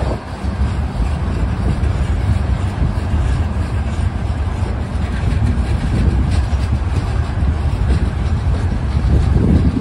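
Open-top hopper cars of a CSX limestone train rolling past: a steady, heavy rumble of steel wheels on rail, with faint clicks of wheels passing over the rail joints.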